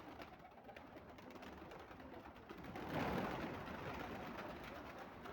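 Pigeons or doves cooing, with small clicks and rustling and a louder rushing noise that swells about three seconds in and fades slowly.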